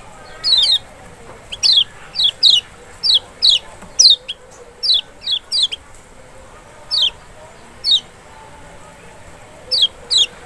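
Kecial (Lombok lemon-bellied white-eye) calling: a run of short, sharp, high notes, each sweeping quickly downward, many in quick pairs, with gaps of up to about a second between them.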